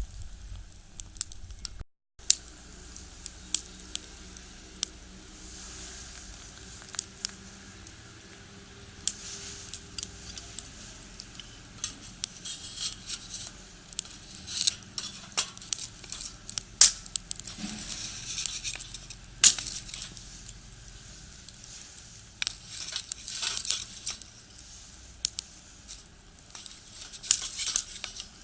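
Firewood crackling and popping in a small box-stove fire: a continuous run of sharp, irregular snaps and pops.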